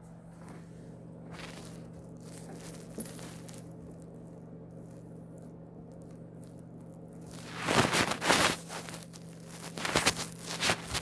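Steady low electrical hum, then two loud spells of rustling and scraping near the end.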